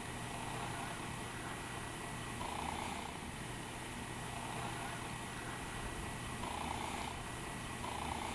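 A steady low hum under a constant hiss, with a few faint soft swells in the middle range.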